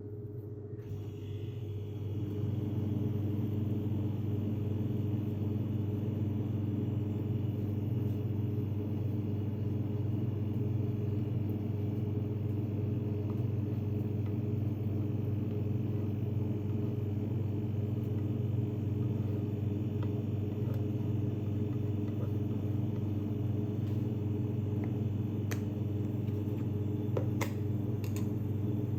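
A small electric motor starts up and runs with a steady low hum, reaching full speed about two seconds in. A few light ticks sound near the end.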